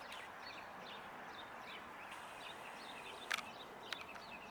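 Faint outdoor background with small birds chirping in quick, scattered short notes, and two sharp clicks a little over halfway through, about half a second apart.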